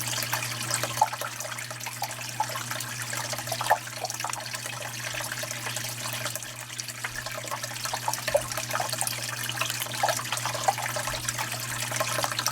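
Water splashing and trickling steadily, like a small vivarium waterfall, over a steady low hum.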